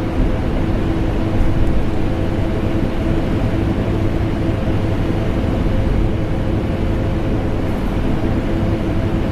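Vacuum cleaner motor running steadily, a constant rushing noise with a low hum, blended with air conditioner noise.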